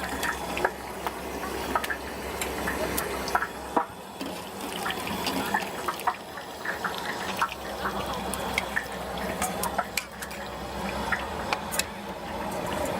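Liquid sloshing and pouring during food preparation, with frequent sharp clicks and clinks of utensils.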